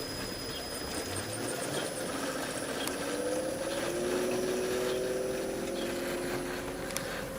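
9500 BTU LG dual inverter window air conditioner running, its hum rising in pitch from about three seconds in and then holding steady as the inverter ramps up.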